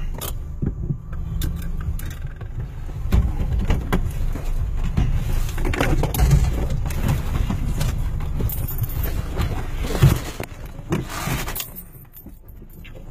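Car engine idling with a steady low rumble, mixed with rustling, clicking and knocking handling noise and a sharp knock about ten seconds in. The rumble drops away near the end.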